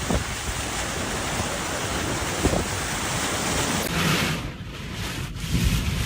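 Typhoon wind and surf: a dense, steady rushing noise with wind buffeting the microphone, shifting to a different recording about four seconds in.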